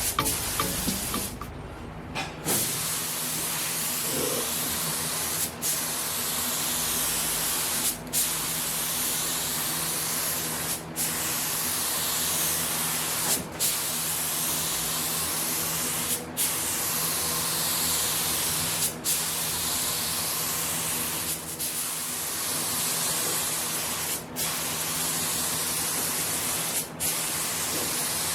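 Air-fed paint spray gun hissing steadily as a coat of paint goes onto a truck body, with short breaks about every two and a half seconds between passes. A steady low hum runs underneath.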